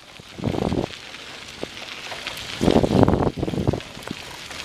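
Wind buffeting the microphone while riding a bicycle, with two louder gusts, about half a second in and again near the middle, and a few light clicks and rattles.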